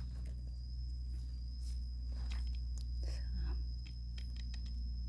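Scattered light crackles and snaps of termite mushrooms being picked from the soil and handled among dry leaf litter, over a thin steady high-pitched tone.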